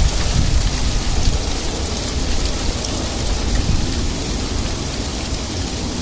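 Sleet falling steadily, a dense hiss of fine ticks as the ice pellets patter on surfaces, over a continuous low rumble.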